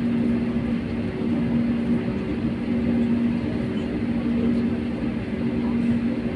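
Steady cabin noise of an airliner taxiing: a constant rumble with a steady hum running under it.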